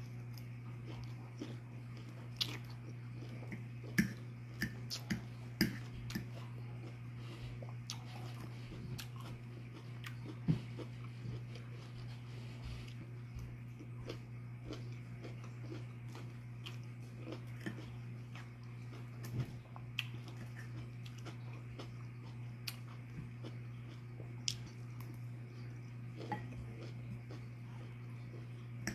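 A person chewing and biting salad greens and chicken close to the microphone, with occasional sharp clicks of a metal fork against the bowl, over a steady low hum.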